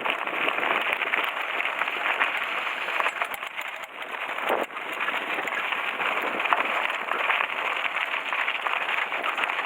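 Mountain bike rolling over a gravel road: a steady crunch of tyres on loose gravel with small rattles and knocks from the bike.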